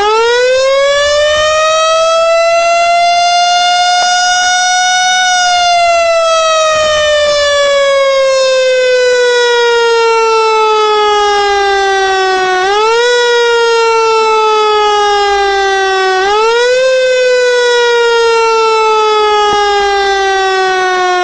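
A loud siren sounding one continuous wailing tone. It climbs steeply at the start, holds near the top for a few seconds and sinks slowly over about seven seconds. It is then pushed back up in short quick climbs about every four seconds, each sliding slowly down again.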